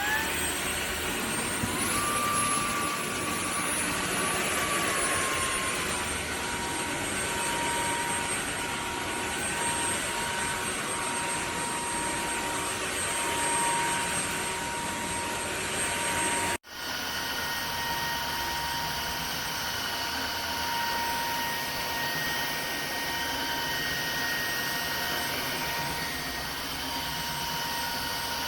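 Dreame H12S wet-dry vacuum's motor running with a steady high whine; the whine steps up in pitch about two seconds in and settles back a few seconds later. The sound drops out for an instant about sixteen seconds in, then carries on.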